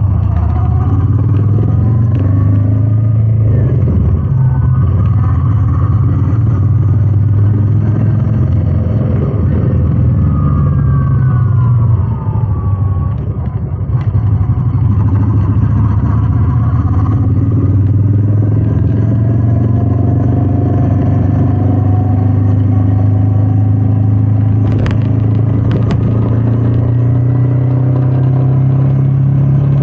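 Royal Enfield Meteor 350's single-cylinder engine running while riding, its pitch rising and falling with the throttle, with a brief drop a little before halfway. Wind on the microphone, and two sharp clicks near the end.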